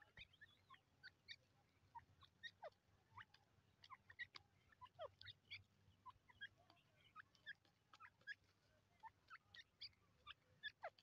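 Near silence with faint, scattered short bird chirps and small falling notes, several a second.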